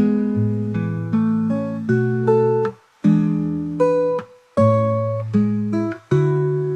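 Background music: acoustic guitar playing plucked chords at an even pace, with two short breaks in the middle.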